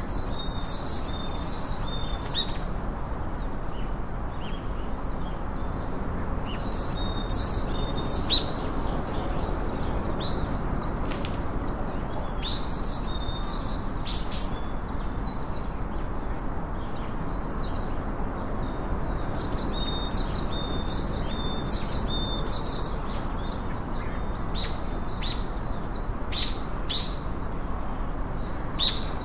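Small forest birds chirping and calling again and again, short high notes and brief whistles, over a steady low rushing background noise.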